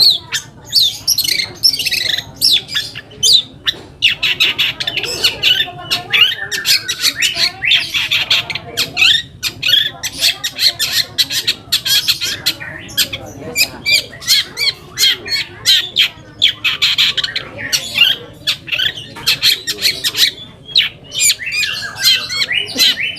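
Long-tailed shrike singing a fast, unbroken chattering song of harsh squawking notes, with a few short falling whistles.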